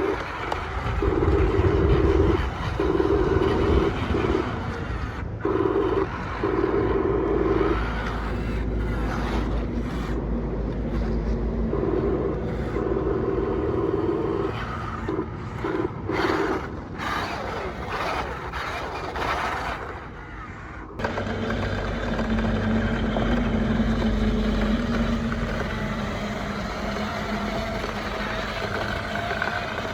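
Small electric motors of radio-controlled toy construction machines running in on-and-off stretches, with a steady whine that starts and stops every second or two, over scraping and rumbling noise; about two-thirds of the way through the sound drops briefly and then changes to a steadier running.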